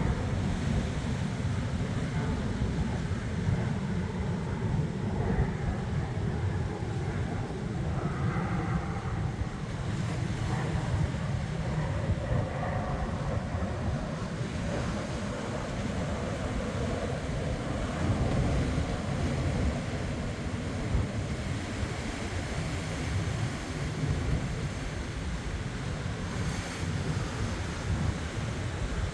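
Ocean surf washing in steadily, with wind buffeting the microphone in a low, uneven rumble.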